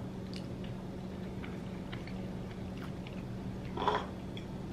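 A person chewing a mouthful of chicken burrito bowl, with faint small clicks of a fork, over a steady low hum. A short vocal sound comes about four seconds in.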